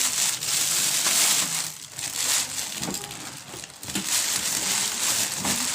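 Packaging crinkling and rustling as it is pulled open and off a new electric kettle, in several loud stretches with brief lulls between.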